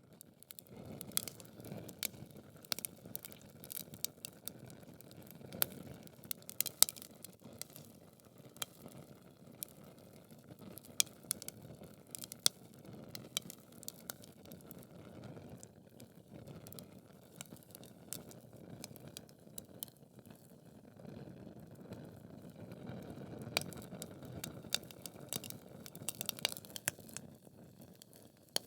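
Logs burning in a fireplace: irregular sharp crackles and pops over a low, steady rush of flame, with one louder pop about seven seconds in.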